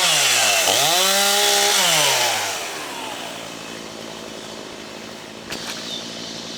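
Chainsaw revved up and down twice, then let off so its pitch falls and fades about two and a half seconds in. A quieter steady hum follows, with a couple of short clicks near the end.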